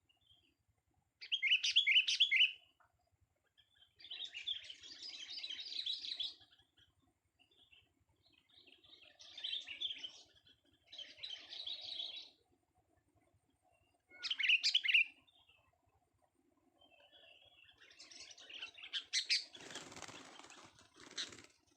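A young sooty-headed bulbul singing in short bursts of chirpy phrases and chatter, with pauses between them. Near the end comes a longer, noisier stretch of wing flapping mixed with calls.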